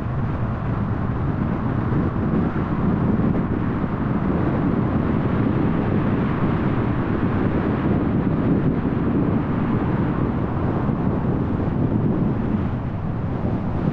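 Car driving at highway speed: steady road and tyre noise with engine hum, swelling slightly in the middle and easing near the end.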